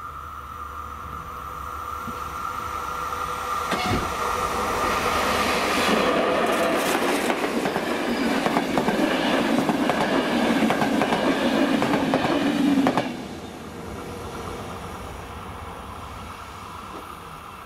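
A passenger train of České dráhy coaches passing over a level crossing, its wheels clattering over the rails. It builds up over the first few seconds, is loudest from about six to thirteen seconds in, and cuts off suddenly as the last coach clears. The crossing's warning signal rings a steady tone, plainest at the start.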